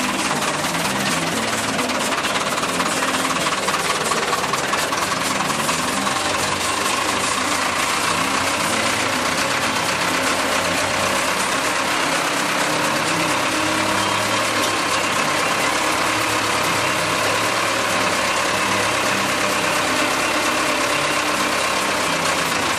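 Massey Ferguson 275 tractor's four-cylinder diesel engine running steadily.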